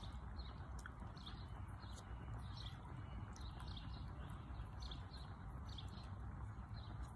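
A small bird chirping over and over in short notes, about one or two a second, over a steady low outdoor rumble.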